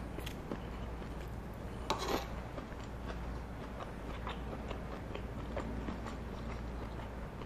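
Close-miked chewing and biting of food, with many small wet mouth clicks and one louder crunch about two seconds in.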